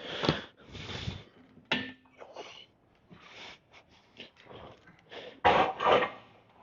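A person's heavy breathing: a few short, hissy breaths, the two loudest near the end.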